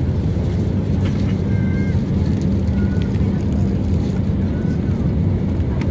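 Steady drone of engines and rushing air inside an airliner cabin, a low even rumble with a hum under it.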